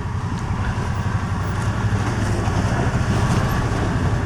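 Side-by-side UTV engine running steadily under load on a rocky trail, its hum slowly rising in level.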